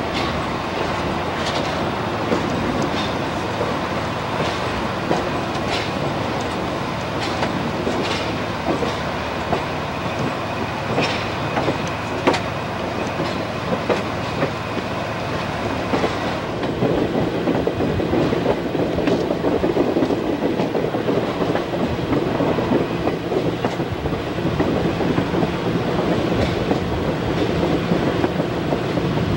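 Train rolling along jointed track: a steady rumble with scattered sharp clicks of wheels over rail joints. Past the halfway point the rumble grows louder and rougher.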